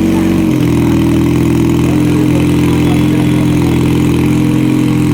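Benelli 300 motorcycle's parallel-twin engine idling steadily, with a brief blip of revs right at the start.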